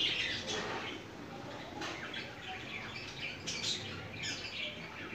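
Chicken and masala paste frying in oil in a wok, sizzling with scattered small crackles and pops.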